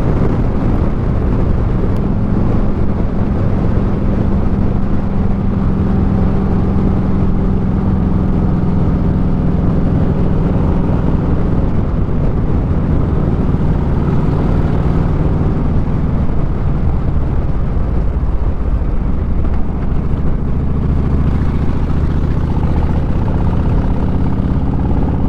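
Motorcycle engine running under way, heard from the rider's position with wind noise over it. Its pitch holds steady for long stretches and settles lower in the last several seconds.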